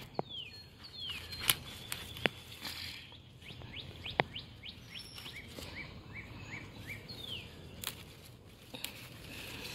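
Songbirds calling: several short falling chirps and, in the middle, a quick run of short repeated notes, about three or four a second. Over them come a few loud sharp clicks and snaps from tomato leaves and stems being handled.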